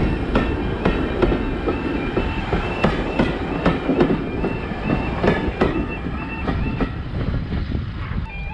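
Train running on jointed track, its wheels clicking over the rail joints about twice a second over a steady rumble.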